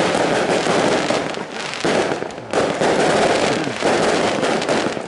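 Aerial fireworks going off in a loud, dense crackle of rapid pops, with fresh volleys starting every second or two.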